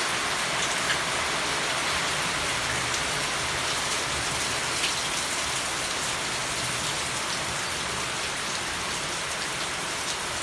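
Steady heavy rain falling, an even hiss with scattered individual drops ticking on nearby surfaces.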